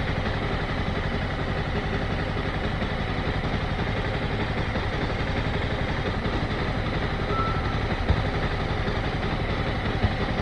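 Motorcycle engine running steadily at low revs, with no revving up or down.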